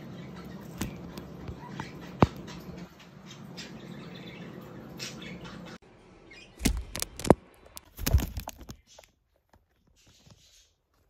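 Small birds landing and hopping on the camera: sharp taps and knocks on the housing with a few faint chirps. A cluster of loud thumps about two-thirds in, then it goes nearly silent.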